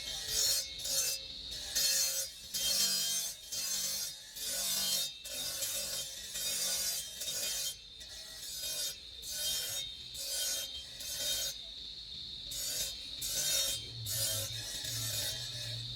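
Hand abrading of a marble carving: rough rasping strokes, about one to two a second, rubbing back and forth over the stone.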